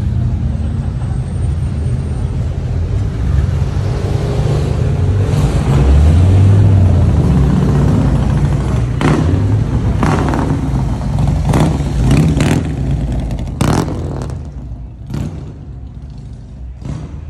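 Loud low rumble of a motor vehicle's engine, revving up and down about six seconds in, followed by a string of sharp knocks or clatters before the rumble fades near the end.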